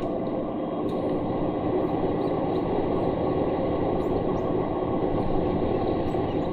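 Steady HGV engine and road noise heard inside the lorry's cab, held at an even level.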